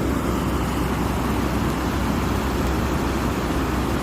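Steady rushing noise of strong storm wind, with a deep rumble from the wind buffeting the microphone.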